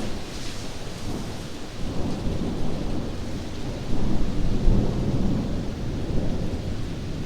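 Thunderstorm: steady rain with rolling thunder rumbling under it, swelling to its loudest about four seconds in.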